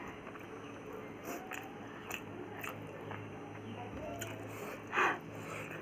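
A person chewing food close to the microphone, with soft crunches and small mouth clicks, and one louder noisy burst about five seconds in.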